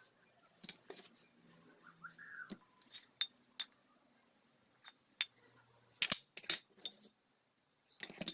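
Small metal parts and tools clinking and tapping as they are handled: scattered single clicks, with a louder cluster of knocks about six seconds in and another near the end.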